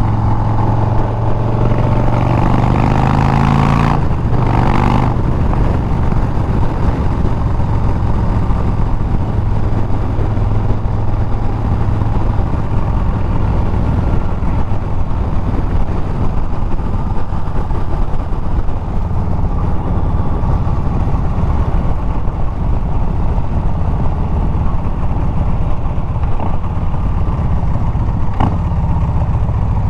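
Harley-Davidson Milwaukee-Eight 114 V-twin running through Bassani straight pipes while riding, the note rising for the first few seconds. A brief burst of noise about four seconds in, then steady cruising with a rushing haze of wind and road noise.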